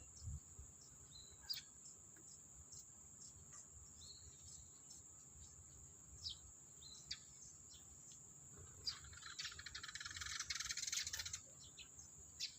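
Scattered short bird chirps over a steady high-pitched insect drone, with a dense two-second buzzing burst about nine seconds in.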